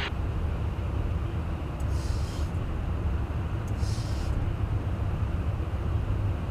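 Steady low rumble of a KC-135 tanker in flight, heard from inside the aircraft: engine and airflow noise. Two short bursts of high hiss come through about two and four seconds in.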